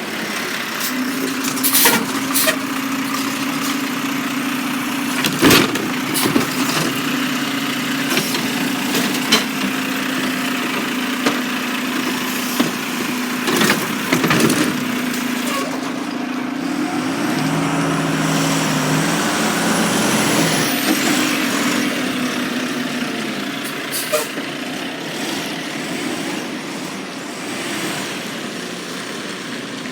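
Garbage truck working: a steady hum that stops about three-quarters of the way through, broken by sharp bangs and clanks several times.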